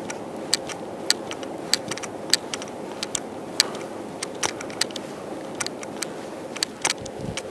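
A steady hum of a running engine, with many short sharp clicks and clinks spaced about half a second apart and a few close together near the end.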